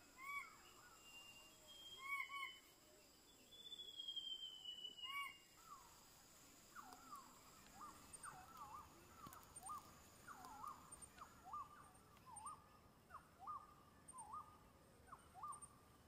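Birds calling: a few short arched notes, a falling whistle about four seconds in, then a run of quick hooked notes about twice a second through the second half.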